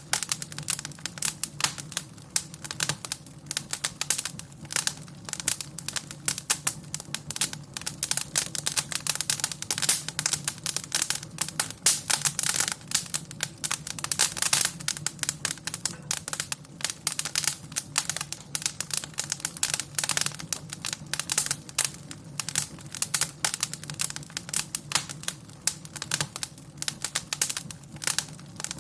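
Wood fire in a fireplace crackling and popping, with dense irregular snaps over a steady low rumble of the flames.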